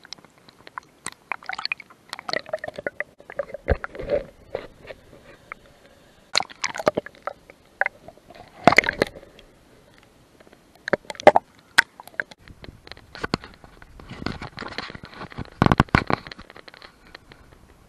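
Irregular knocks, scrapes and sloshes of a canoe being paddled: the paddle bumping and scraping the hull, with water splashing.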